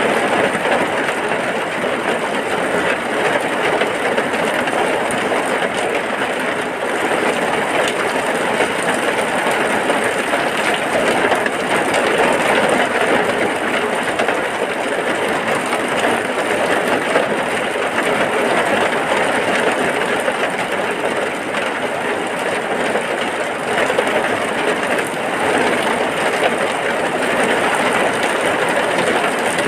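Heavy rain falling steadily: a dense, even rush of sound with no breaks or distinct drops.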